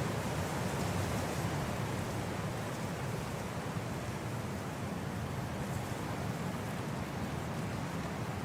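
Blizzard wind blowing steadily: an unbroken, deep rushing noise with no gusts or breaks.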